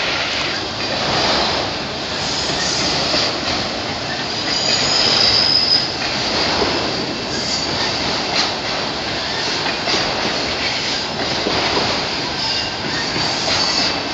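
Freight train of loaded autorack car carriers rolling slowly past, with steady wheel-on-rail noise from the passing cars. A thin high wheel squeal comes in about four to six seconds in.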